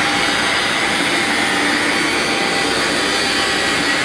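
Steady, loud rushing hiss during TIG welding of a type 304 stainless steel tank bottom on the penetration (root) pass.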